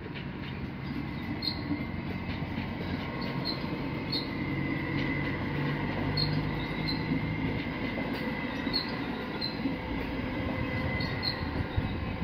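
Double-deck electric passenger train passing over a level crossing: a steady rolling rumble that grows a little louder, with a faint high held tone, and pairs of sharp wheel clicks every couple of seconds as the bogies go by.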